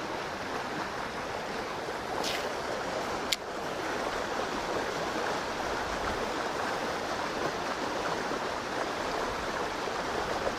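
Steady rushing of stream water, with a brief hiss about two seconds in and a sharp click a little over a second later.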